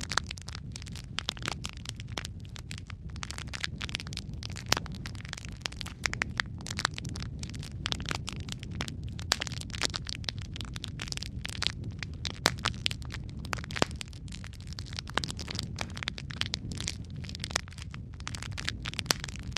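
Wood fire crackling in a fireplace: a dense run of sharp snaps and pops over a steady low rumble of burning.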